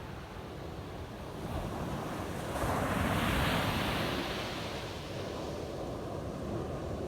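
Ocean waves breaking on a sandy beach: a wave washes in about halfway through, swelling into a louder hiss of surf and then easing off, over a steady low rumble with some wind noise on the microphone.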